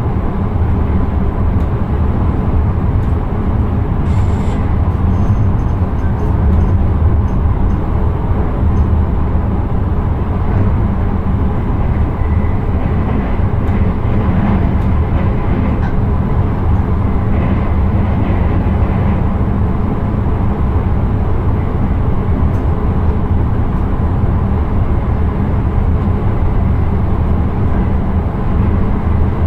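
Steady rumble of an intercity train running along the track, heard from inside the driver's cab.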